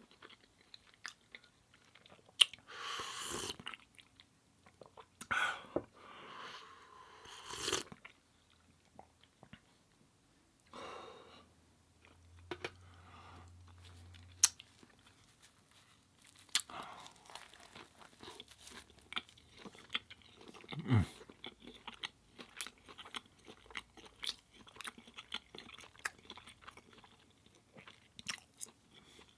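Close-miked eating sounds: a man chewing and biting a buttered English muffin sandwich with hash browns, with irregular wet mouth clicks and short crunches.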